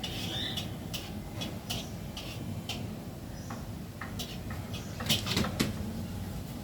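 Caged birds giving short, high chirps and clicks, one or two a second, over a low steady hum, with a louder cluster about five seconds in.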